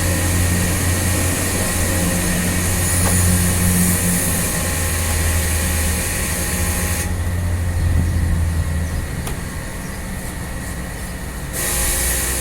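A machine motor running steadily with a low hum, under a loud hissing rush that cuts off about seven seconds in and starts again near the end.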